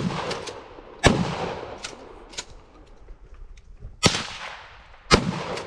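Four gunshots from a .22 rifle, irregularly spaced: about a second apart, then a three-second gap, then another pair a second apart. Each shot trails off in a short echo, with a few fainter cracks between them.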